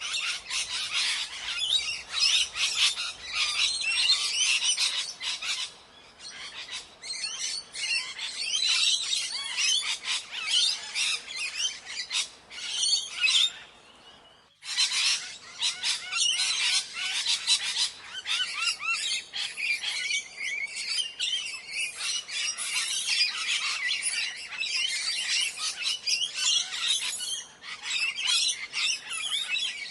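A flock of parrots screeching and chattering, many short shrill calls overlapping without let-up, with a brief break about halfway.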